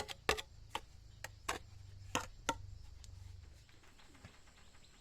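A series of sharp knocks at an uneven pace, about seven in the first two and a half seconds, over a low hum that fades about three and a half seconds in.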